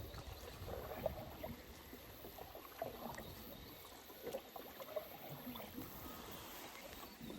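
Faint water sounds around a canoe on a river: soft lapping and trickling against the hull, with a few light knocks.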